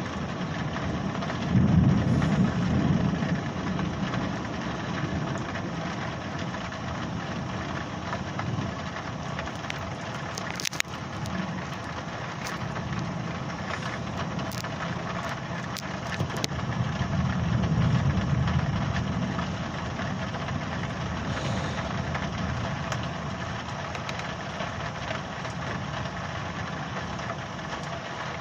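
Thunder rumbling twice, a low swell a couple of seconds long near the start and again about two-thirds of the way through, over a steady hiss of storm noise. A few short sharp cracks or clicks come in the middle.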